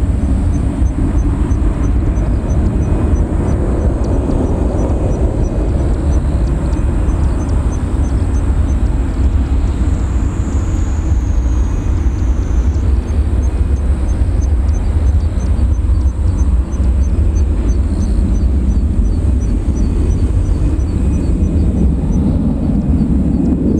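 Steady low rumble of a Boeing 737-400's CFM56 jet engines, heard outdoors, with a faint high chirp repeating about twice a second.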